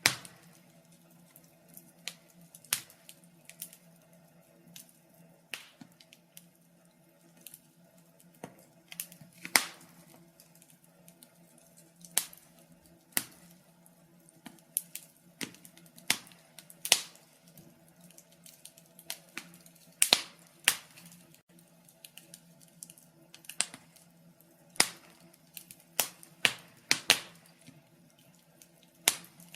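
Wood fire crackling: sharp, irregular pops and snaps, several a second at times, over a faint steady low hum.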